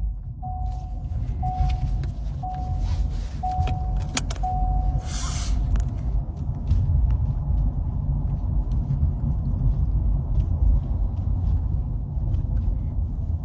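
Steady low rumble of a car heard from inside, with an electronic warning chime sounding six times, about once a second, over the first few seconds. A short hiss comes about five seconds in.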